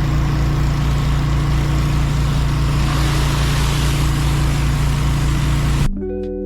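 Petrol-engine pressure washer running steadily at a constant pace, with a hiss of noise over its hum. It cuts off suddenly near the end, giving way to plucked guitar music.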